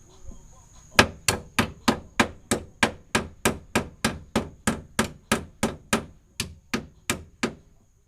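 A hammer striking in a quick, even series of about twenty blows, roughly three a second, starting about a second in and stopping shortly before the end.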